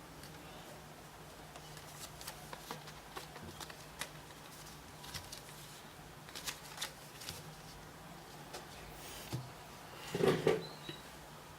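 Sheet of origami paper being folded and creased by hand: scattered crisp crackles and taps, with a louder rustle about ten seconds in.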